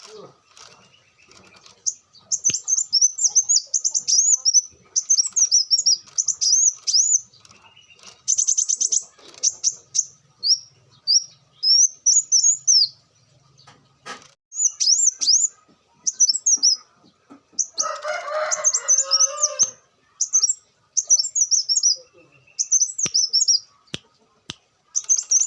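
Kolibri wulung sunbird singing in its full 'gacor' manner: rapid, high, twittering 'nyerecet' phrases repeated in short bursts with brief pauses, and a fast buzzy trill about a third of the way in. Around two-thirds of the way through comes a harsher, lower, noisier burst.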